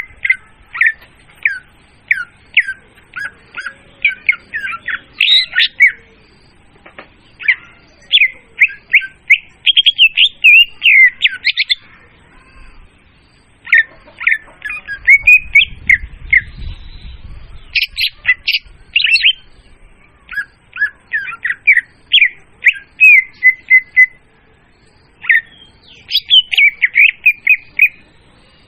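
Leafbird (murai daun) song used as a hunting lure call: loud, clear, rapid chirps and slurred whistled notes in quick phrases, broken by a few short pauses.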